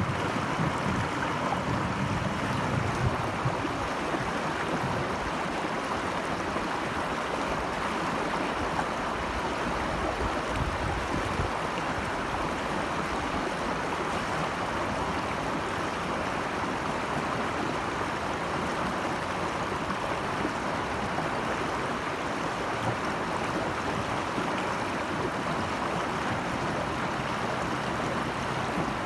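Flowing water in a steady, even rush.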